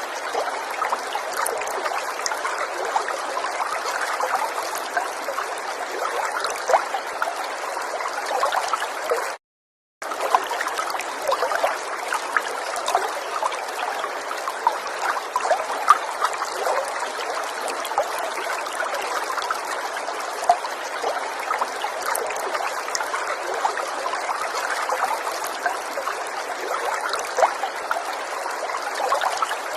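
River water flowing and trickling steadily over stones, full of small bubbling splashes. It drops out to silence for about half a second a little over nine seconds in.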